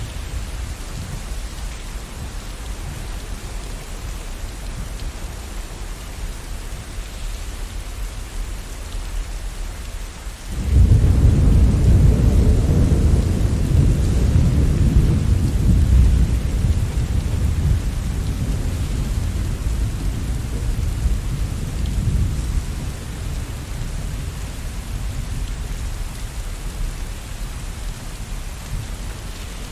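Steady rain with a long roll of thunder that breaks in suddenly about a third of the way in, a deep rumble that slowly fades away.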